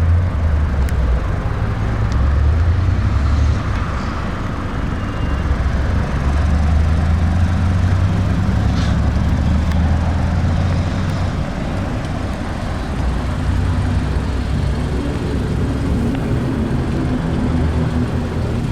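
2015 Mazda CX-5's Skyactiv four-cylinder engine idling, a steady low hum that swells and eases slightly.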